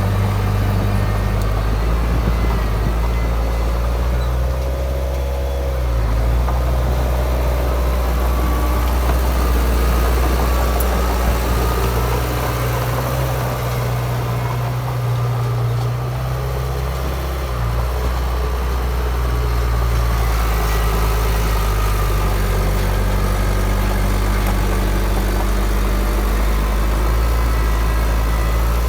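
Heavy diesel engine of earthmoving machinery running steadily, its note stepping up and down every few seconds as the load changes.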